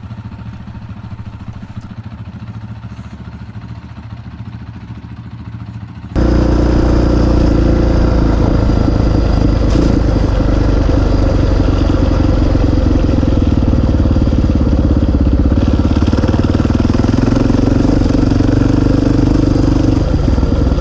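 Dual-sport motorcycle engine running, at first at a moderate level. About six seconds in it suddenly becomes much louder and holds steady.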